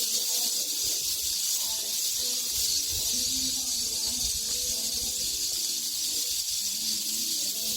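A chorus of cicadas: a steady, high-pitched shrill buzz that holds at one level without a break.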